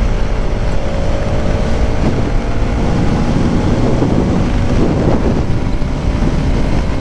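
Bajaj Pulsar NS200's single-cylinder engine running steadily under way, with wind rushing over the microphone.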